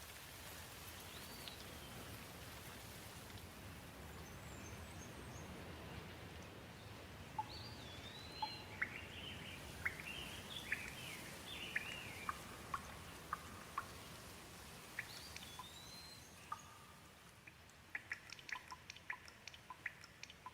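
Gentle rain falling steadily, with a bird chirping now and then in short rising and falling calls, mostly in the middle. Near the end comes a quick run of sharp drips.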